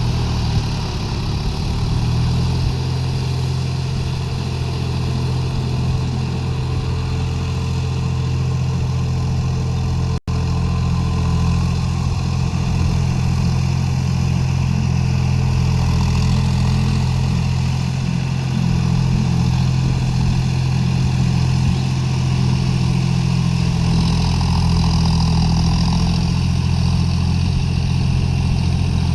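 John Deere 5050D tractor's three-cylinder diesel engine running steadily under load, with a steady low drone. There is a momentary break in the sound near the middle.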